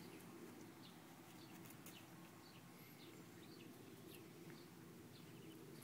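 Near silence: a faint steady low hum, with scattered faint high chirps of small birds calling in the distance.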